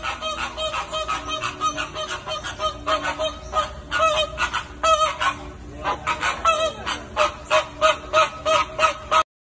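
A flock of birds giving many short, repeated calls, several a second and overlapping one another; the calls cut off abruptly near the end.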